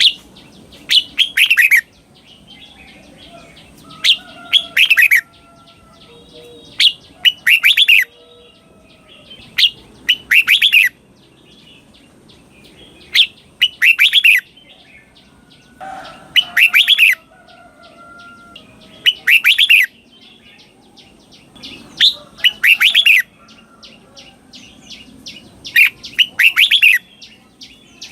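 Red-whiskered bulbul singing in the doubled 'เบิ้ล' style: short phrases of about a second, repeated every two to three seconds. Each phrase is two quick bursts of clear notes sweeping down.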